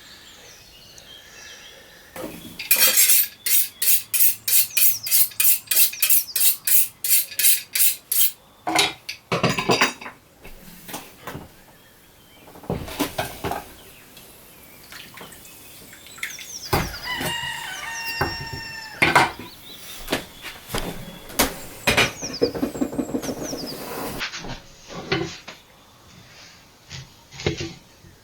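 Rhythmic knife strokes on a cutting board, about three a second for several seconds. Then scattered clinks and clatter of kitchen utensils and dishes.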